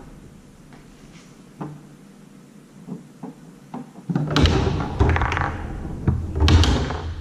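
Tornado foosball table in play: a few light clicks, then about four seconds in a fast flurry of sharp knocks and clatter as the ball is struck by the rod men and hits the table.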